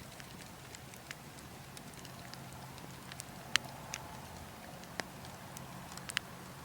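Wood logs burning, crackling with scattered sharp pops, the loudest about halfway through, over a steady low rush of wind.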